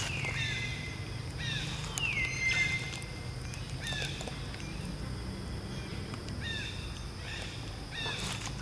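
Bird calling outdoors: a string of short, high, downward-sliding whistled notes repeated every half second or so, with one longer note about two seconds in that falls and then holds steady for about a second.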